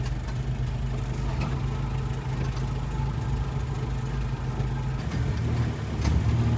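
Jeep engine running steadily as it drives along a sandy trail in four-wheel drive, a steady low hum.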